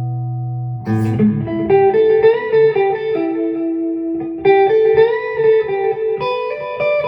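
PRS SE Hollowbody II electric guitar with humbucker pickups, played clean through a Peavey Vypyr X2 modelling amp on its Budda amp model. A held chord rings out, then about a second in a new strum starts a run of single notes and chords.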